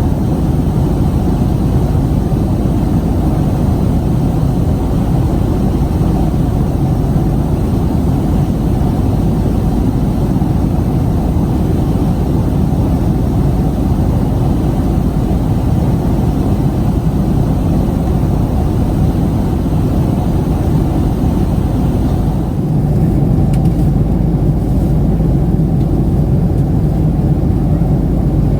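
Steady cabin noise of a Boeing 767-300ER in flight: even, low engine and airflow noise, a little louder in its low band from about 23 seconds in.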